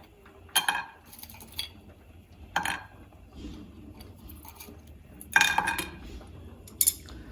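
Metal cookware clinking: several separate knocks and clinks of a utensil against a pot or pan, each ringing briefly.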